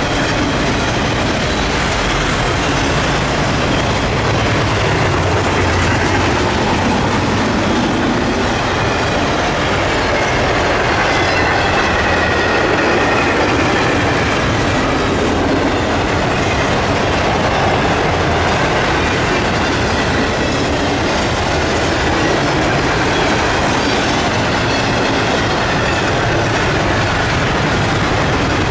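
Train cars rolling past on the track: a steady, loud rumble with the clickety-clack of wheels over the rail joints.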